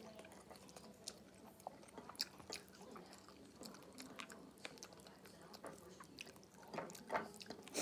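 A person chewing food, eaten by hand, with faint, irregular wet clicks and smacks of the mouth.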